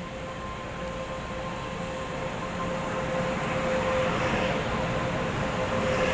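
Electric local train pulling out of the station: a steady electrical whine from its traction equipment over the rumble of wheels and motors, growing louder as it gathers speed.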